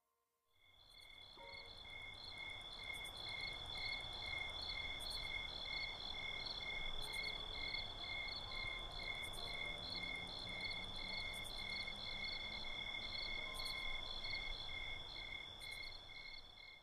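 Night-time insect chorus used as an ambience sound effect: a steady high trill with regular chirps about two a second over a low rumble. It fades in about half a second in and fades out at the end.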